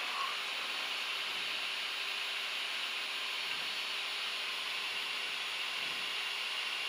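Steady cockpit noise in a Gulfstream G-IV jet on approach: an even hiss with a faint steady hum underneath.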